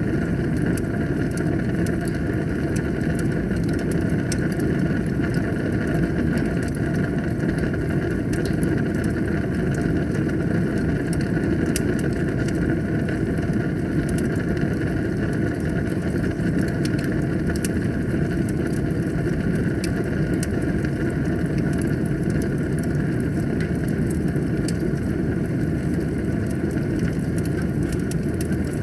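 Wood fire burning in a fireplace: a steady low roar of flames with frequent small crackles and pops scattered through it.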